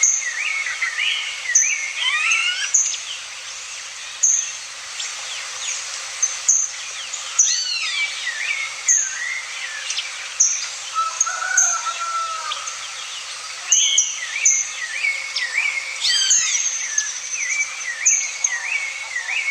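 Several wild birds singing and calling together: a mix of chirps and whistled phrases, with a short high note repeating about once a second.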